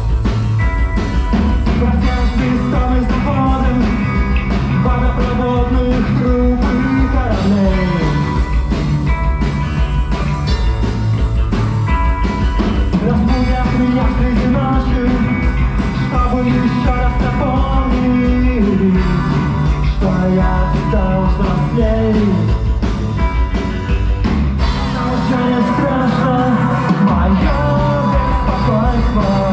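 A live rock band playing a song at full volume, with a steady beat under a wavering melodic line. The deep bass thins out briefly about 25 seconds in.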